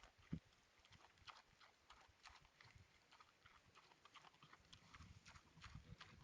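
Faint, irregular clicking and crunching of pigs feeding, with low rumbles of wind on the microphone about half a second in and again near the end.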